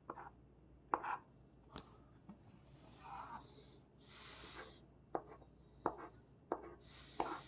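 Scratch-off lottery tickets being scratched: short bursts of faint scraping with sharp taps in between.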